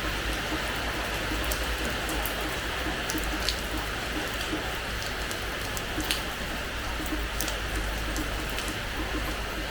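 Steady rain falling on a terrace floor, with many small drop impacts over an even hiss. Two louder single drops land about a third and about two-thirds of the way in.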